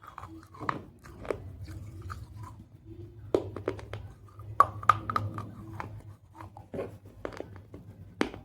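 Pieces of baked clay pot being bitten and chewed close to the microphone: irregular sharp crunches and cracks, several louder bites in the middle.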